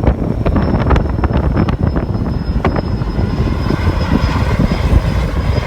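Firefighting helicopter flying, its engine and rotor making a heavy, fluctuating low rumble, with sharp irregular strokes during the first few seconds.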